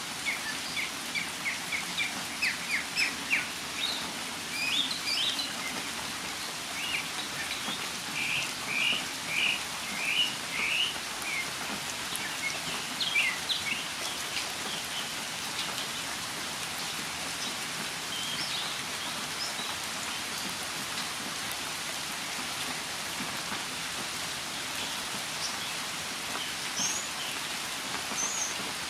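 Northern mockingbird singing in steady rain: a run of varied phrases, each note or phrase repeated several times, that stops about halfway through, leaving the patter of rain with only a few faint notes.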